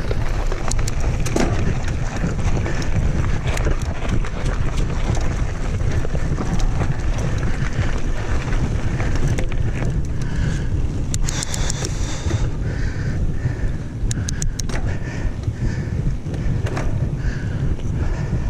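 Wind rushing over the camera microphone on a moving mountain bike, heavy and steady, with many sharp clicks and knocks scattered through it.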